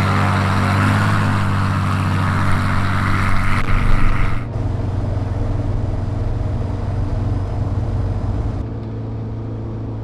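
Light aircraft engine running steadily, a low drone. The sound changes abruptly and drops a little about four and a half seconds in, and again near the end.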